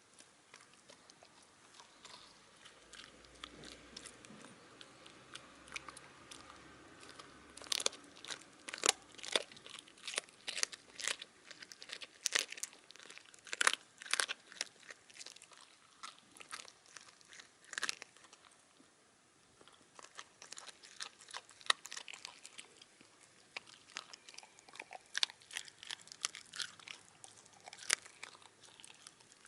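A Shiba Inu crunching and chewing chicken wing tips, the small bones cracking in a rapid run of sharp crunches, with a short pause a little past halfway before the chewing resumes.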